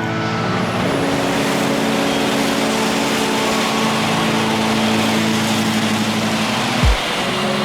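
Tohoku Shinkansen train rushing past at high speed: a loud, steady rush of air and rail noise builds about half a second in and holds. Background music with sustained notes and a pulsing beat plays underneath, with a low falling boom near the end.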